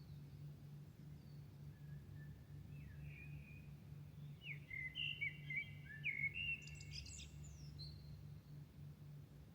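A songbird sings a varied phrase of quick slurred whistles and chirps, loudest about halfway through, over a steady low pulsing hum.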